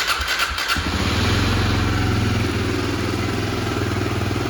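2009 Kawasaki 250 motorcycle engine cranking briefly, catching under a second in, then idling steadily on a cold start with the manual choke.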